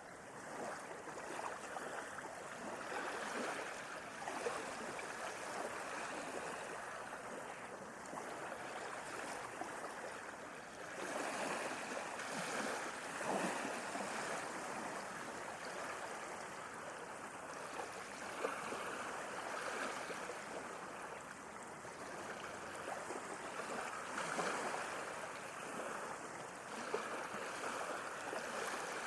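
Sea waves washing in on a shore, a continuous rush of surf that swells and eases every several seconds, fading in at the start.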